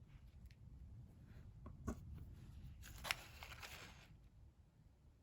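Quiet handling of paper and card craft materials: a few light clicks and taps, and a brief rustle about three seconds in, over a low steady room hum.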